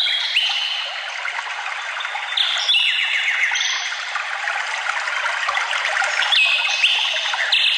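Songbirds singing short clear whistled phrases, several in turn, over a steady trickle of running water.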